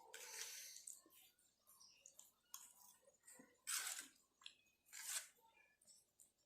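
Close-up eating sounds: irregular chewing and crunching of food, with a few louder crunchy bites about a third of a second in, near four seconds and near five seconds.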